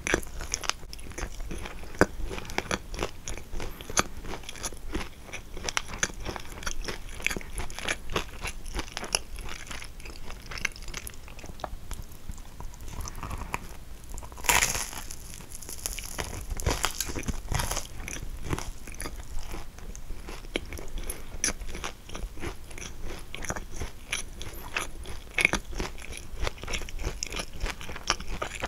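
Close-miked biting and chewing of a kouign-amann, its caramelized, flaky crust crunching and crackling in irregular bites, with a few louder crunches.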